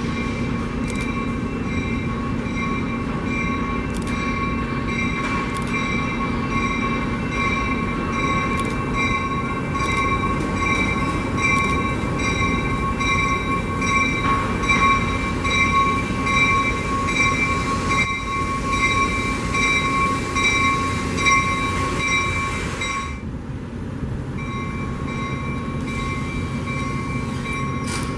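A train rolling past close by: a steady rumble with many short clicks from the wheels, and a steady high-pitched squeal or whine over it. The squeal drops out briefly near the end, then comes back.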